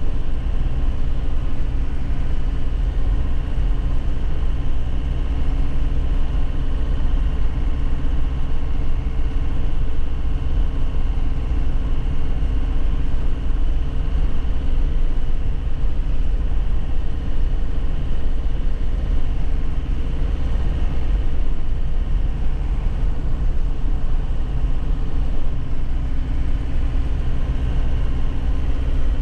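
2001 Nissan Cabstar 106Le light truck engine running at a steady speed while driving, with a constant deep road rumble from a rough surface.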